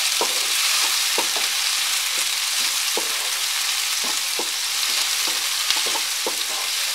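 Sliced onions and chopped tomatoes sizzling in hot oil in a frying pan, with a spatula stirring and scraping through them in quick repeated strokes, about two a second.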